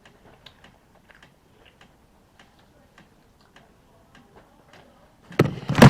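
Faint, irregular small clicks of a mouth chewing a piece of candy, then a loud burst of noise near the end.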